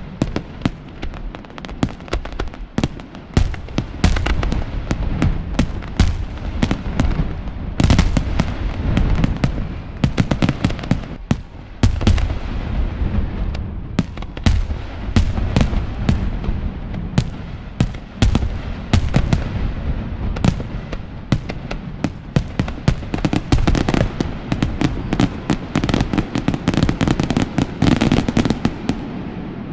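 Fireworks display: a dense, continuous barrage of sharp bangs and crackling bursts, several a second, over a low rumble of echoing booms.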